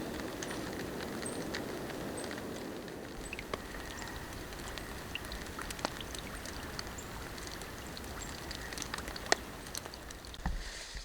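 Steady rain falling, with scattered individual drops ticking sharply on nearby surfaces.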